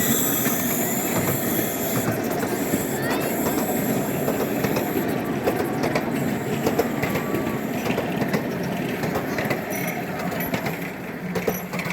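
Ridable miniature park railway train rolling along its track, wheels clattering over the rail joints in a steady run of clicks. It eases off near the end.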